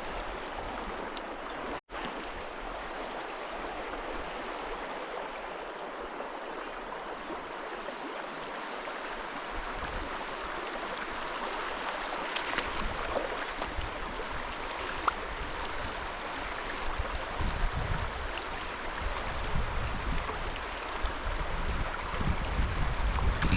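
Small mountain stream rushing steadily over rocks. In the second half a low rumble and scattered small knocks join it.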